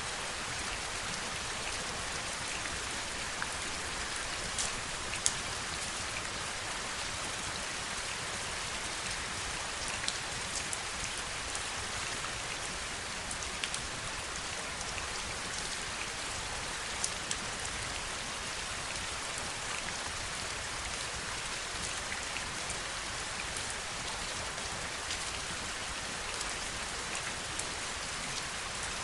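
Heavy rain falling steadily: an even hiss of rainfall with a few sharper, louder drop hits scattered through it, the clearest about five seconds in.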